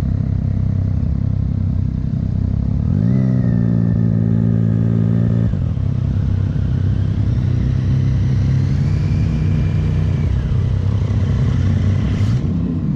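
Motorcycle engine under way: it pulls up in pitch about three seconds in, holds steady, then drops off abruptly as the throttle is shut, then climbs and holds again, over a constant low rush. A brief quick rising sweep comes near the end.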